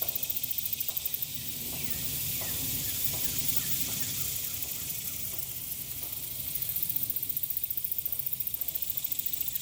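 Outdoor summer ambience: a steady high hiss of insects, pulsing rapidly at times, with faint short chirps.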